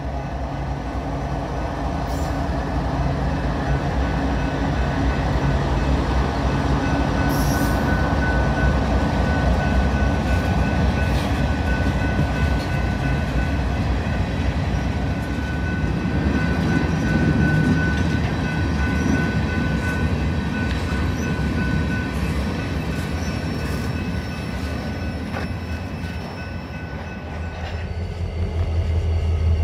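Freight train passing: diesel locomotives go by, then covered hopper cars rumble and clatter past with a steady thin wheel squeal. Near the end a deep, steady diesel engine hum takes over.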